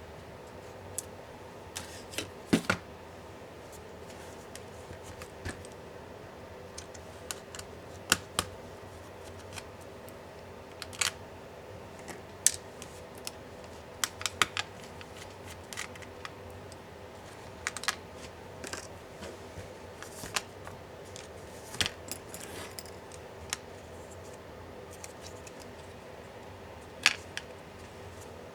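Scattered sharp clicks and taps of small hand tools and plastic and metal laptop parts being handled during disassembly, over a steady faint hum.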